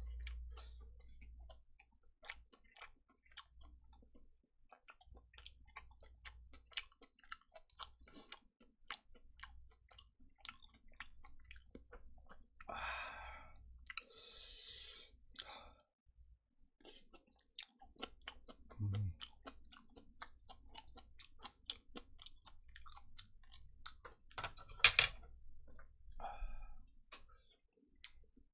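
A person chewing kimchi stir-fried pork belly close to the microphone, with a steady run of small wet mouth clicks and smacks. One sharp clack near the end is the loudest sound.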